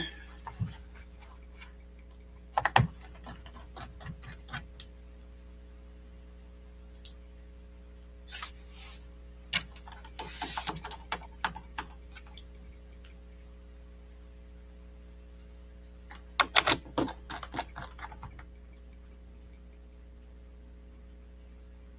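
Small screws and a screwdriver clicking and tapping against a MacBook Pro's aluminium bottom cover as it is fitted back on, in scattered clusters about three, ten and seventeen seconds in, over a steady low hum.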